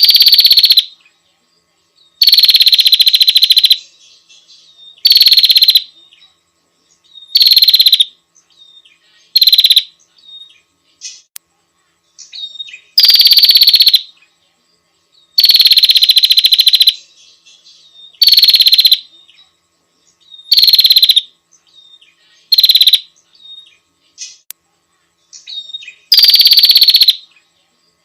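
Female prinia (prenjak) calling to a male: loud, harsh buzzing rattles, each half a second to a second and a half long, repeated every two to three seconds, with soft short notes in between.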